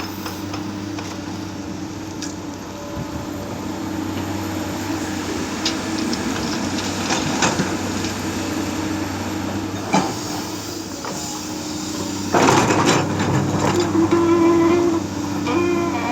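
Excavator's diesel engine running steadily, with a few sharp metallic knocks, then a loud rough burst of noise about twelve seconds in as soil is dug or dumped, and a brief rise in engine or hydraulic tone after it.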